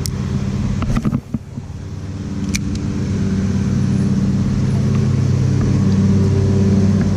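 Steady low engine hum with a fixed pitch, briefly dropping away about a second in with a few sharp clicks, then growing steadily louder.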